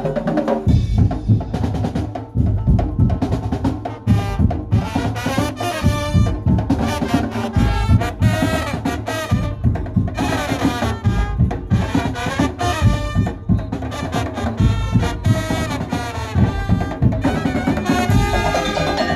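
Madurese tong-tong (ul daul) ensemble music: fast, heavy drumming with a loud, horn-like melody playing over it.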